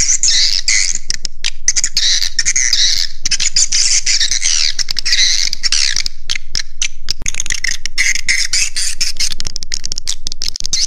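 Recorded swiftlet roosting call ('suara inap'), a lure for swiftlet houses: dense, continuous twittering and chirping of many swiftlets, with two very short breaks, about seven seconds in and near the end.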